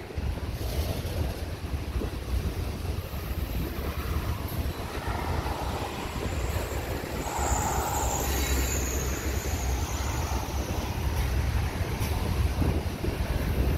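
Freight train cars rolling over a steel girder railway bridge: a steady low rumble of wheels on the rails, with a brief high wheel squeal about halfway through.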